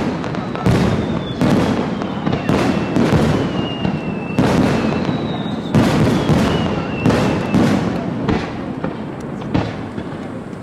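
Fireworks display: aerial shells bursting in a rapid barrage of bangs, with whistling shells gliding down in pitch between them. The bursts thin out near the end.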